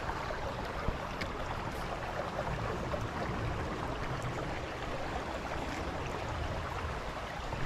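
Steady rush of a fast-flowing creek running high after a storm, with a couple of faint clicks about a second in.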